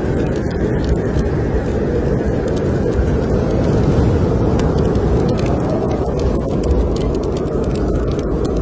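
Blizzard wind blowing steadily as a low, loud rush, with scattered sharp crackles and pops from a wood fire burning in a fireplace.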